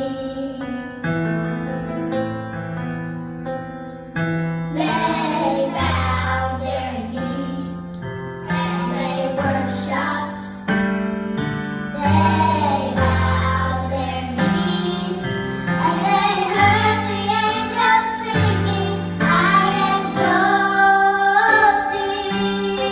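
Piano accompaniment playing alone at first, joined about five seconds in by a high singing voice that carries on through the rest of the passage.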